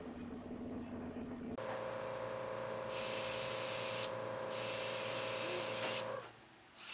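Electric power-tool motors running on wood: a steady humming motor, then after an abrupt cut a higher-pitched motor whine. Twice the whine is joined by a harsh high hiss of the tool working the wood, before it stops near the end.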